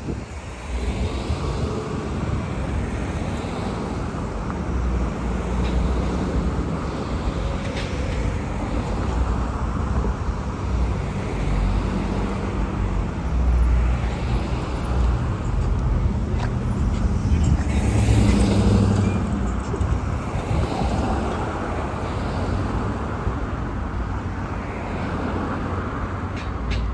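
Road traffic with a city bus and cars running past: a steady engine and tyre rumble that swells as a heavy vehicle goes by, loudest about two-thirds of the way through.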